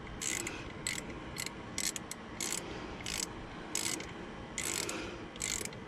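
Hand socket ratchet clicking in repeated short back-strokes, about ten of them, roughly two a second, as a bracket bolt is tightened.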